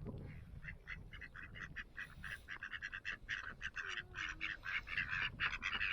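A group of ducks quacking in a rapid, overlapping series of short calls, several a second, growing louder toward the end.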